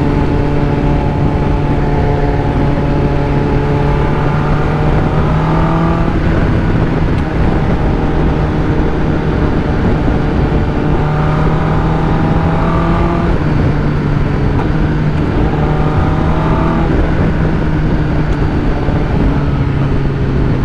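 Sport motorcycle engine running at steady highway cruising speed, with wind rushing over the microphone. The engine note climbs gently and falls back a few times as the throttle is worked.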